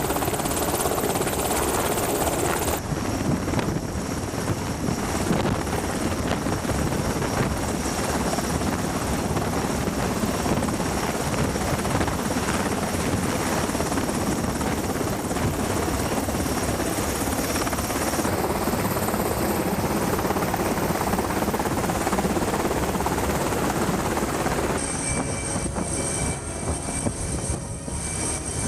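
Loud, steady aircraft noise. It changes character abruptly about three seconds in, again around eighteen seconds and again about twenty-five seconds in, as one recording gives way to the next.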